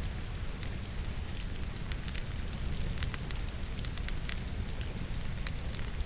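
Wood fire burning in a fireplace, crackling with frequent sharp pops over a steady low rumble, mixed with the steady patter of rain.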